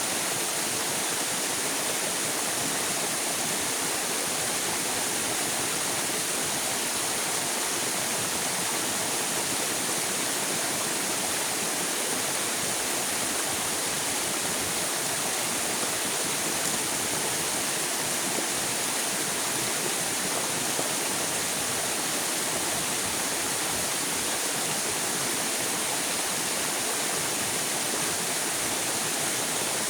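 River water flowing in a steady, unbroken rush, with no change in level.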